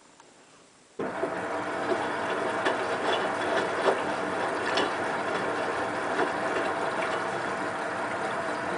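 Hotpoint WT960 washing machine suddenly starting to move water about a second in after a quiet pause: a steady rush of water with faint hum and scattered small clicks.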